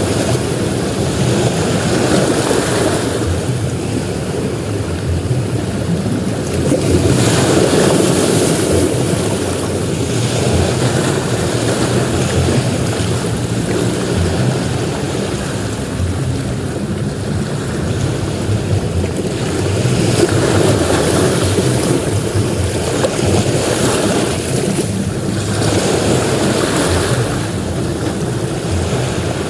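Ocean surf breaking on a beach: a continuous wash of waves that swells louder each time a wave breaks, several times over.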